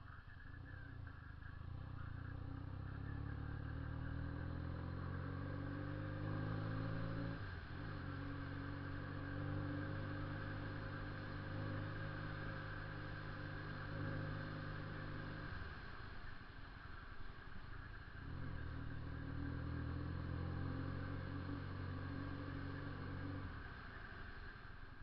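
Honda CB 400 II motorcycle's parallel-twin engine running under way with a loud exhaust note, held at a steady pitch. The note breaks briefly about seven seconds in, drops away for a couple of seconds about two-thirds through, then comes back before easing off near the end.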